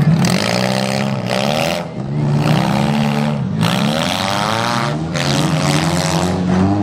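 Several demolition derby cars' engines revving hard, their pitch rising and falling over one another, with repeated louder surges as drivers floor it.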